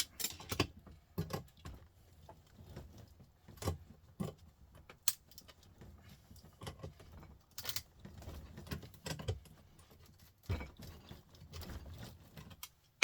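Irregular metallic clicks, knocks and clinks as a small electric motor from a printer is worked apart with hand tools, its casing squeezed and its spindle pulled out.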